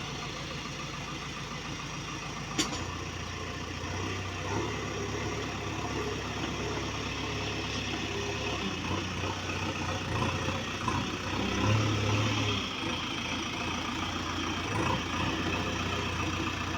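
Heavy diesel engine running steadily, with a sharp click about two and a half seconds in, after which the engine's note changes.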